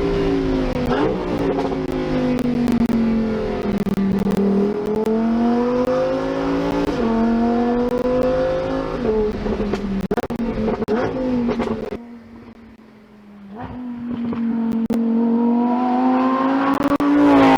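Lamborghini Huracán Tecnica's naturally aspirated 5.2-litre V10 under hard acceleration, its pitch climbing and dropping sharply at each gear change several times. About twelve seconds in it falls away to a much quieter note for a second or two, then builds and rises again near the end.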